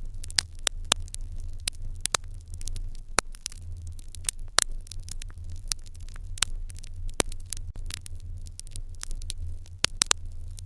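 Wood fire in an irori hearth crackling, with irregular sharp pops, a few louder than the rest, over a steady low rumble.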